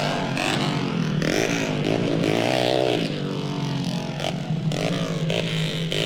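Motor vehicle engines running and revving, the pitch rising and falling over a steady low hum.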